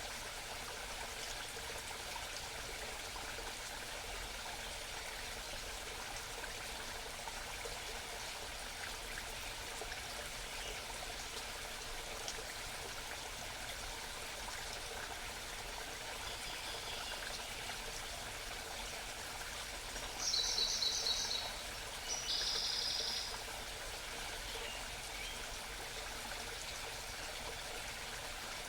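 Small stream babbling steadily. About two-thirds of the way through a small bird sings two short, rapid, high-pitched phrases close together, the loudest sounds here.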